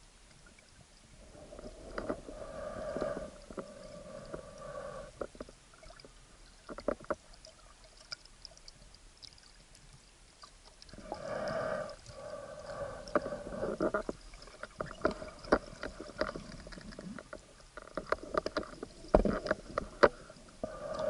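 Water and handling noise heard through an action camera's waterproof housing underwater. Three stretches of hollow, muffled water noise a few seconds long come about two seconds in, around eleven seconds and at the end, with scattered sharp knocks against the case.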